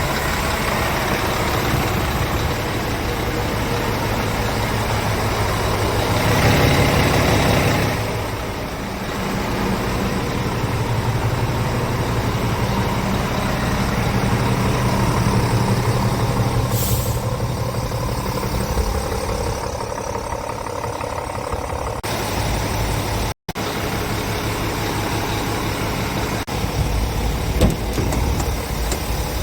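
Scania G410 truck's 13-litre straight-six diesel idling steadily, getting louder for a couple of seconds about six seconds in. A short hiss of air is heard past the middle.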